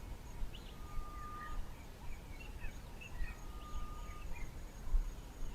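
Faint played-back bird calls: scattered short chirps and two brief, steady whistles, the first about a second in and the second about three seconds in.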